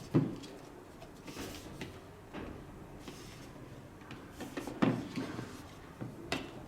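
Several short knocks and clunks of the plastic aroma diffuser being handled and set down, the loudest just after the start and another about five seconds in.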